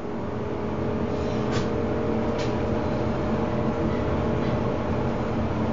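Dover passenger elevator car travelling up, with a steady hum and rumble and a faint held whine. Two light clicks come about a second and a half and two and a half seconds in.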